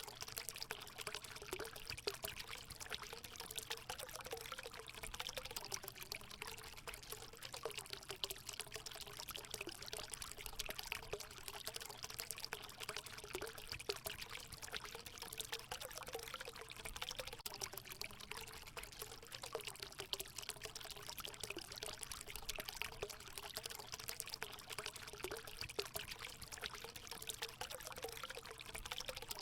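Natural water running steadily into a hot spring pool, a continuous pouring and trickling with a wavering gurgle underneath.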